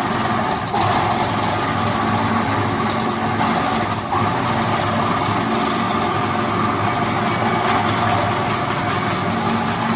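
A large machine running steadily, with a motor hum and faint, even ticking. The sound dips briefly twice, once about a second in and again about four seconds in.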